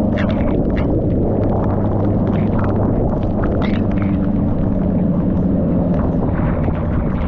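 Motorcycle riding under way: the engine runs steadily beneath a loud, constant wind rumble on the microphone, with scattered short crackles over it.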